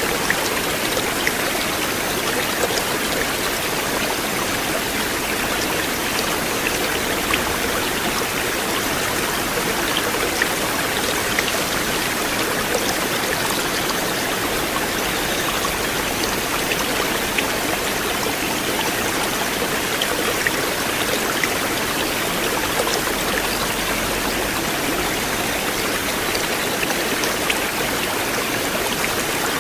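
River water flowing in a steady, even rush, with scattered small splashes and drips.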